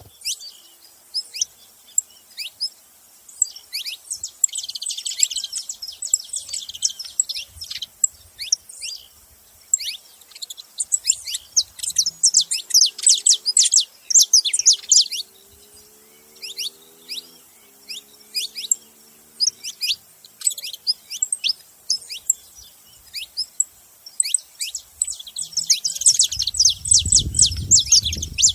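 Saffron finches chattering: many rapid, sharp high chips overlapping in dense waves that swell and thin out.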